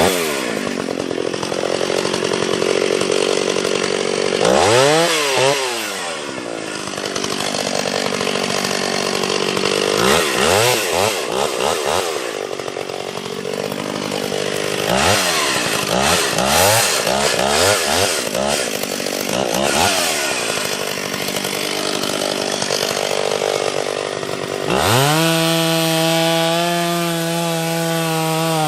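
Two-stroke chainsaw cutting into a tree trunk for a felling cut deep enough to set a wedge, its engine pitch dropping and climbing back several times as the chain bites into the wood, then running at a steady high pitch near the end.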